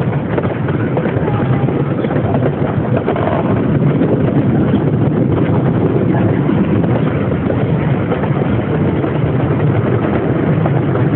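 Steady rumble of a small park train in motion, heard from its open passenger car.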